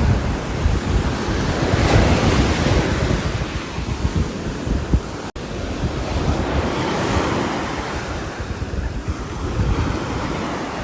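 Rain falling on a roof: a dense, steady hiss over a low rumble that swells louder and eases off in slow waves, with a split-second gap about five seconds in.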